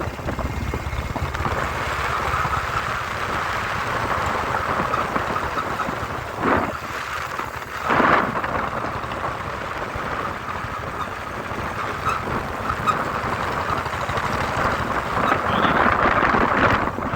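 Wind rushing over the microphone and the running noise of a motorcycle on the move, a steady rush with a low rumble beneath. Two short louder gusts come about six and a half and eight seconds in.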